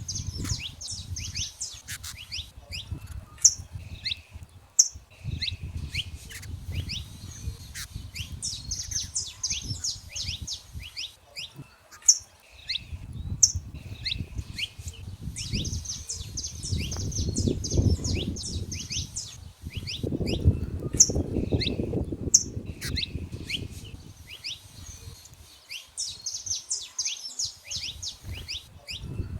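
Wild saffron finches calling and singing: many short sharp chirps and repeated trilled song phrases. A low rumble runs underneath and swells in the second half.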